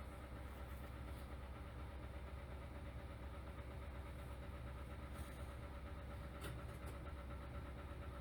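City bus diesel engine idling steadily, heard from inside the passenger cabin while the bus stands at the stop.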